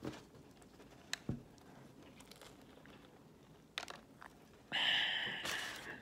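Biting into a Popeyes classic fried chicken sandwich close to the microphone and chewing: a few faint clicks, then about three-quarters of the way in a loud crunch from its crispy breaded coating, lasting about a second.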